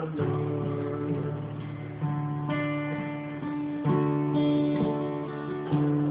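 Acoustic guitar strummed in an instrumental break between sung lines of a song, its chords changing about every one and a half to two seconds.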